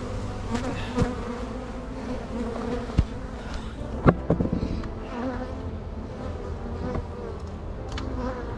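Honeybees buzzing around an open hive, a wavering hum of many bees in flight, with a few sharp knocks, the loudest about three and four seconds in.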